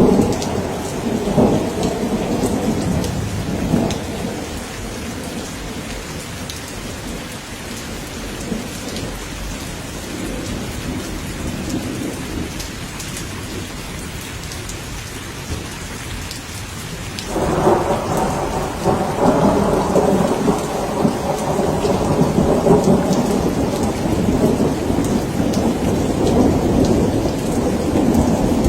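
Steady rain with rolling thunder. A low rumble dies away over the first few seconds; about two-thirds of the way through, a new roll of thunder breaks in suddenly and keeps rumbling.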